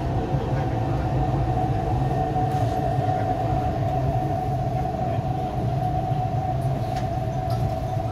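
MTR East Rail Line R-Train heard from inside the carriage, running steadily along the track: an even low rumble with a steady whining tone above it.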